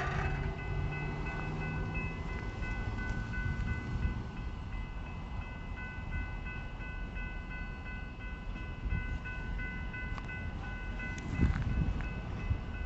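Kiamichi Railroad train moving slowly during a switching move: a low steady rumble of rolling locomotive and cars, with a thin high-pitched squeal held steady and a louder knock about eleven seconds in.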